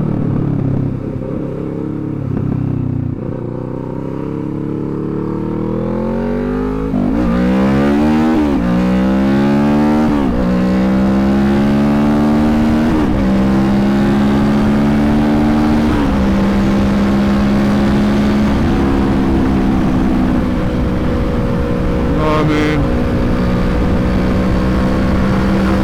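Motorcycle engine running low for several seconds. About seven seconds in it pulls hard up through the gears, its pitch climbing and dropping back at each of about four upshifts. It then holds a steady cruising note. Wind rushes past throughout.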